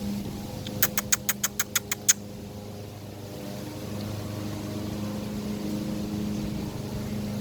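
A steady low mechanical hum, with a quick run of about nine sharp clicks about a second in.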